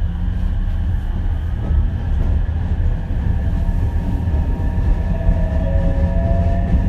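Running sound inside an Ichibata Electric Railway 7000-series electric railcar (car 7001): a steady low rumble of wheels on rail with the traction motors' whine held on a few steady tones.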